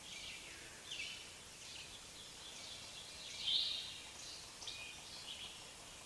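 Small birds calling: a run of short, high chirps and twitters, the loudest about three and a half seconds in, over a steady faint hiss.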